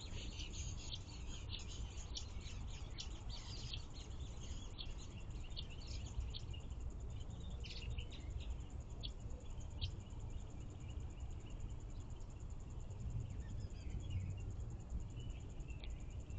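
Small songbirds chirping in many quick, short, high notes. The calls are busy for the first ten seconds or so and thin out after, over a steady low background rumble.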